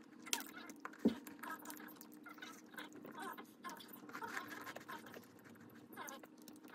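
A person chewing a crisp baked chocolate chip cookie close to the microphone: small crunches and mouth clicks, with one sharper click about a second in, over a faint steady hum.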